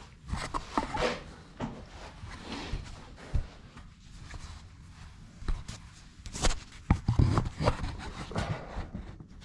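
Irregular knocks, clatter and rubbing as wooden pieces are handled and worked, busiest about two-thirds of the way through.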